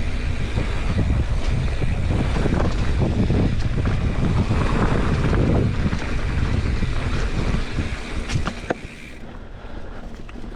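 Wind buffeting the microphone with a low rumble of the bike rolling over the dirt trail. It drops off sharply about eight seconds in, just after a couple of sharp clicks, as the bike slows.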